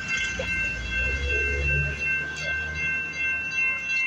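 Metro light-rail train rumbling low, swelling about half a second in and easing off near the end, over a steady high-pitched whine of several tones.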